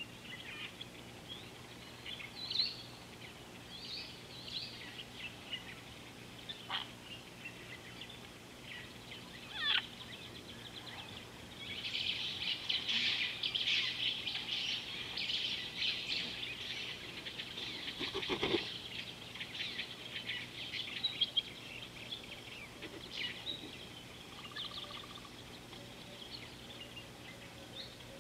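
Birds chirping and calling, with scattered short chirps that swell into a dense flurry of calls in the middle and then thin out again. A steady low hum runs underneath.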